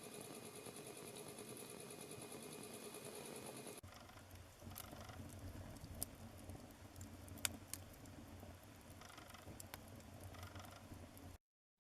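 Wood fire burning in a fireplace: a low rumble with scattered sharp crackles and pops, the loudest about six and seven and a half seconds in. For the first few seconds, before a cut, a steady whirring hum with a fast flutter is heard instead, and the sound drops out briefly near the end.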